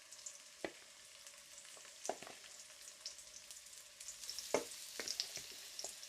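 Chicken drumsticks pan-frying in oil: a steady sizzle with scattered sharp pops and spits that grow busier in the last couple of seconds.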